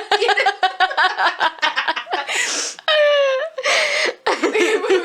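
Hard, breathless laughter: rapid bursts of giggling broken by gasping breaths and a short high-pitched squeal about three seconds in.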